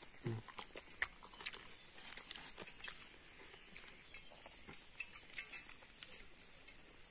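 Faint chewing and crunching of fried fish, with scattered small clicks.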